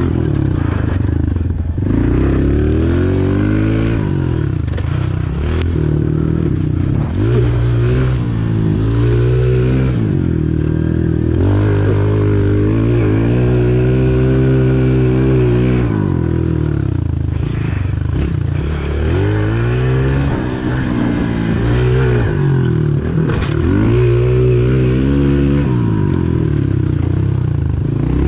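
Honda CRF125 pit bike's single-cylinder four-stroke engine being ridden hard, its pitch climbing and falling again and again as the throttle opens and closes and it shifts through the gears.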